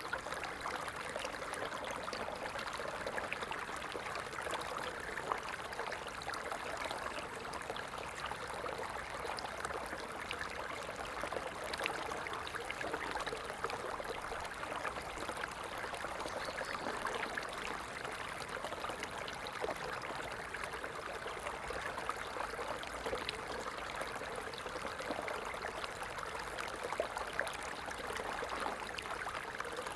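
A stream of water running steadily, an even rush with many small splashes and no change in level.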